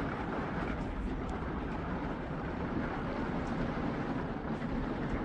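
Heavy rain pouring down steadily during a thunderstorm, an even hiss with no breaks.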